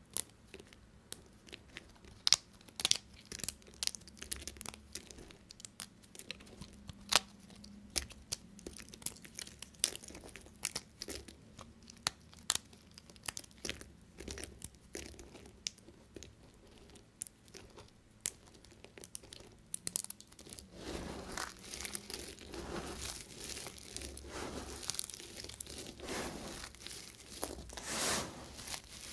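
Knife cutting through bars of soap: a run of sharp crackles and crunches as the blade breaks through, turning about two-thirds of the way in to longer, denser scraping strokes.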